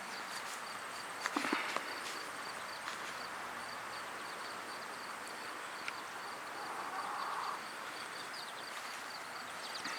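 Outdoor ambience with an insect chirping steadily, a thin high-pitched chirp about three times a second. A brief cluster of knocks comes about a second and a half in.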